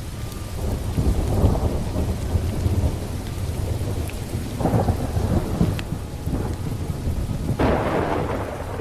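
Thunder rumbling over steady rain. Louder rolls swell about a second in, near the middle and again near the end.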